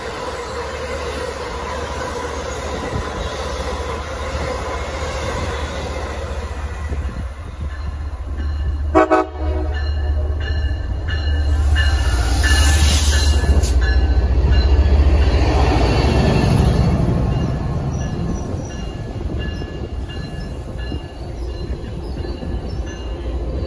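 Trains running through a station: an Amtrak train passes, then an MBTA commuter train led by an MPI HSP46 diesel locomotive pulls in alongside. There is a steady deep rumble throughout, a short sharp sound about nine seconds in, and high thin squealing tones as the diesel comes close, loudest around the middle.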